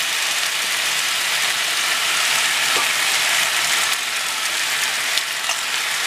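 Stir-fry of meat and vegetables sizzling steadily in a frying pan.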